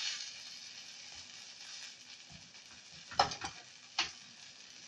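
Potato-filled flatbread sandwiches sizzling in a hot, lightly oiled grill pan while being pressed down with a spatula. A couple of short clicks of the metal spatula against the pan come near the end.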